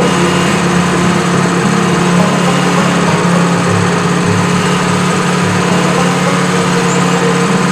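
Sawmill's small gasoline engine running at a steady speed.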